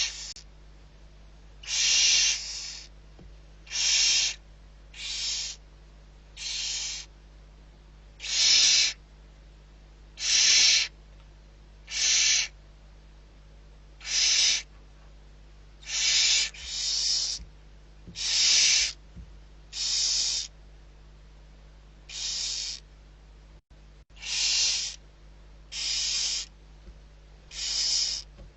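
Barn owl giving a long series of harsh, breathy hissing calls, each under a second, about one every one to two seconds.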